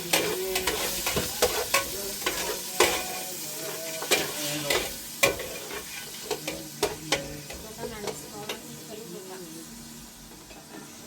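Food sizzling in a pan while a utensil stirs it, with many sharp clinks of the utensil against the pan. The clinks thin out and the sizzle quietens toward the end.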